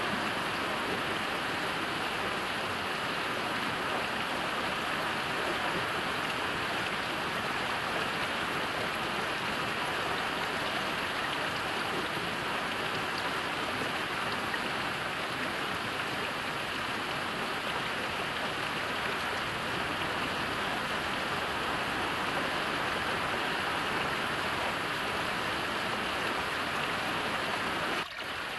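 Heavy rain falling steadily, a dense even wash of drops. It dips out for a moment near the end and comes straight back.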